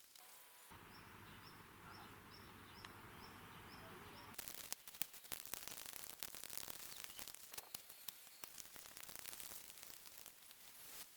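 Faint outdoor ambience in which a bird chirps over and over, about twice a second, for the first few seconds, then gives way to a run of scattered faint clicks and crackles.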